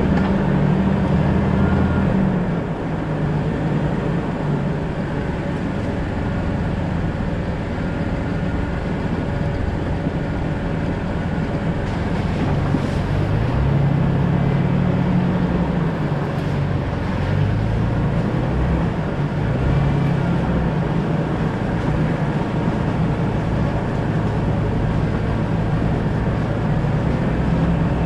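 Jeep Cherokee XJ engine running while driving, over steady road and tyre noise. The engine note drops about two and a half seconds in and rises again around halfway through.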